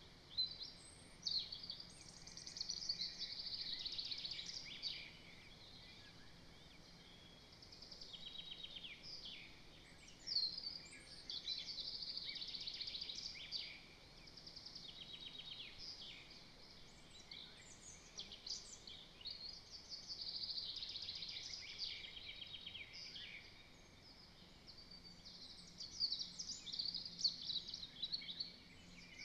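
A small songbird singing: repeated phrases of about three seconds each, made of trills and quick sweeps, with short pauses between them.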